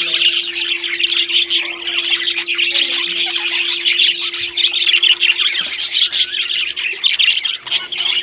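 Pet parrots chattering without pause, a dense run of squawks and chirps.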